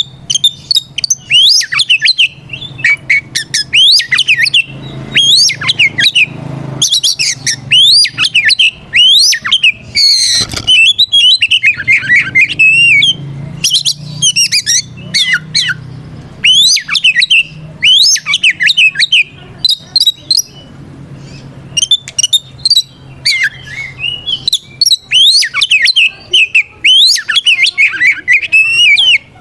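Oriental magpie-robin (kacer) singing its loud, full fighting song, challenging a rival. The song runs as fast, sweeping whistled phrases, each a second or two long with short pauses between, over a faint low hum.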